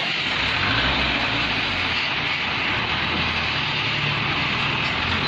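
Log truck's engine running as the truck drives, under a loud steady wash of road and wind noise; the low engine note drifts slightly in pitch.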